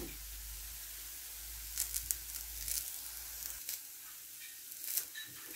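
Stuffed flatbreads frying in a lightly oiled pan on a gas stove: a faint, steady sizzle with a few small crackles.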